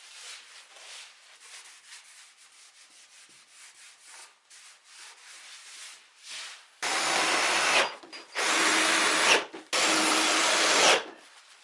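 Soft, quick strokes of rubbing or hand sanding on wood. About seven seconds in, these give way to three loud bursts of steady rushing noise, each about a second long.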